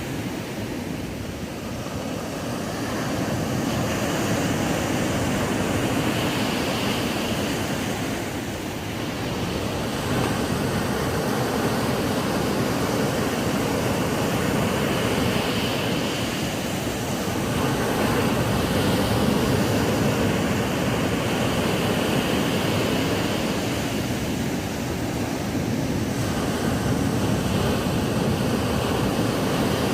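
Ocean surf breaking on a sandy beach: a continuous rushing wash that swells and eases every several seconds as waves come in.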